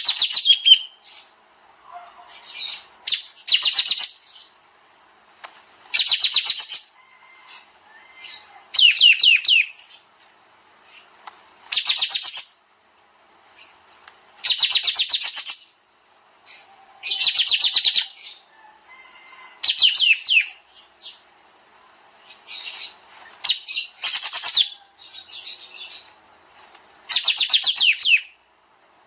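Kapas tembak bulbul singing in short, rapid bursts of dense, fast-repeated notes, one burst every two to three seconds, with softer calls in between: the rapid 'nembak' song.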